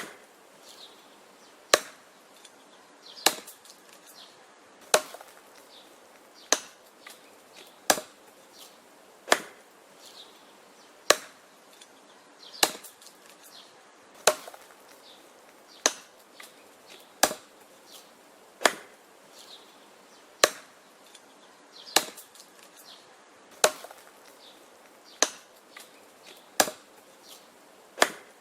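Wood being chopped with an axe: a steady rhythm of sharp, single chopping strikes, about one every second and a half.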